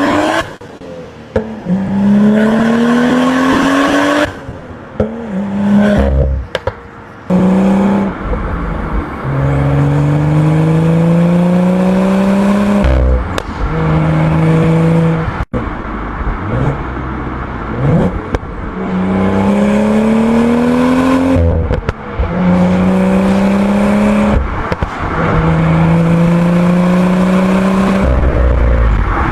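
BMW N55 turbocharged inline-six engine pulling hard under acceleration, its note climbing through the revs and then dropping at each shift, over and over. The engine has freshly replaced rod bearings and runs with no odd noises.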